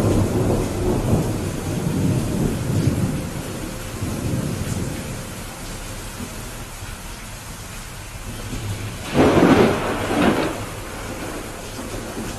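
Steady rain during a thunderstorm. A low thunder rumble in the first few seconds dies away, then a louder, sharper thunderclap comes about nine seconds in, with a second peak a second later.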